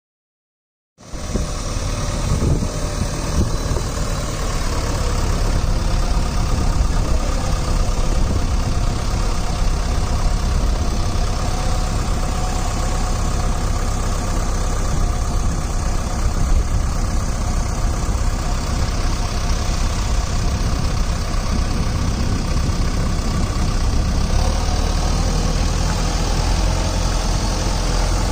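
JCB 3DX backhoe loader's diesel engine running steadily; it comes in sharply about a second in.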